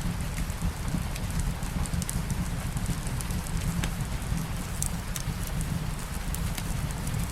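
Steady rain mixed with a crackling wood fire: an even hiss over a constant low rumble, with scattered short crackles and pops.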